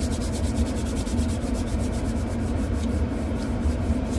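Fast, even rubbing or scraping, about seven strokes a second, over the steady low rumble of an Infiniti G37's engine idling while it warms up on a cold morning.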